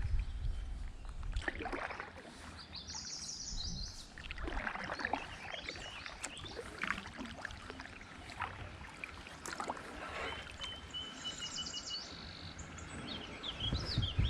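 Kayak paddle strokes, the blade dipping and splashing in the water every couple of seconds. Birds are calling, with a quick trill about two-thirds of the way through.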